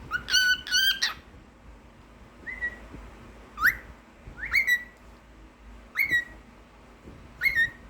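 Cockatiel whistling: two longer whistled notes at the start, then a run of short upswept whistles, each rising and held briefly, about one every second or so.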